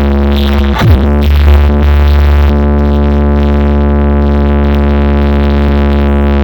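Electronic sound-check music played loud through a DJ speaker-box setup: a steady, buzzy low synth drone with a quick falling sweep effect just under a second in.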